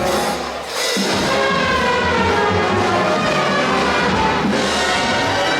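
A live band playing music, a little softer at first and fuller from about a second in.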